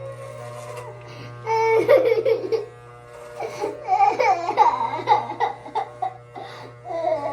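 Electric hair clippers humming steadily. A child's loud, pitched voice wails and vocalizes over them from about one and a half seconds in.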